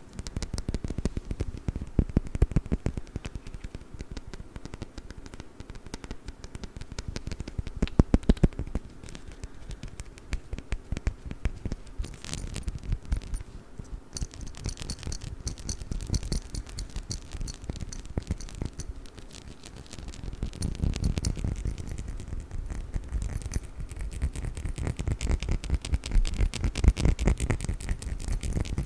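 Quick, dense tapping and scratching on a perfume bottle, in rapid clicking runs, with a brighter scraping stretch about halfway through.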